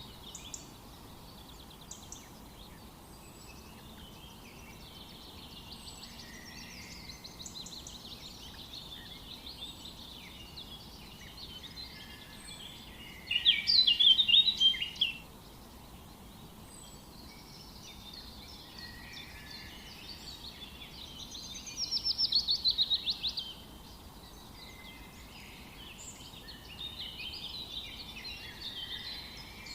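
Several songbirds singing and chirping together over a soft, steady background hiss, with one bird's loud song about halfway through and a rapid, rattling trill of quick notes a few seconds later.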